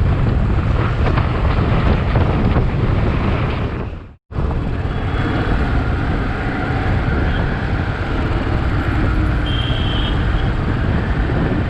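Wind rushing over the microphone on a moving Royal Enfield Bullet 350 motorcycle, with the bike's engine and road noise underneath. The sound cuts out completely for a moment about four seconds in.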